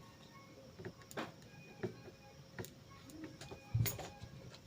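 A few faint, separate clicks and light taps, a second or so apart, with the slightly louder one near the end, over a faint steady hum.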